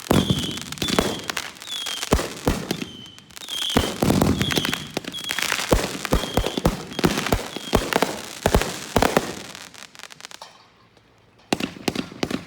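Consumer fireworks going off in quick succession: many sharp bangs and crackles, with short high chirps between them. The bangs die away about ten seconds in, then start again near the end.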